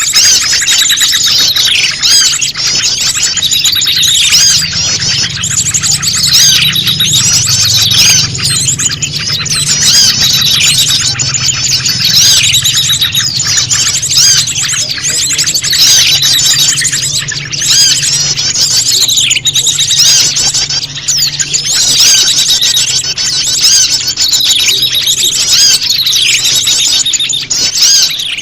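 Bird-lure recording of prenjak lumut calls mixed with a chorus of excited small birds: rapid high chirps and trills, the same phrase coming round about every two seconds as in a loop. A faint low hum runs underneath.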